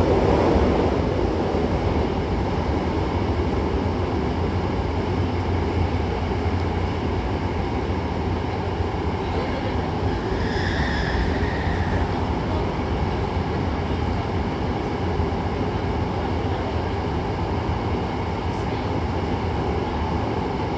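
Hankyu commuter train running through a subway tunnel, heard from inside the car: a steady low rumble of wheels and motors, with a brief high squeal about ten seconds in.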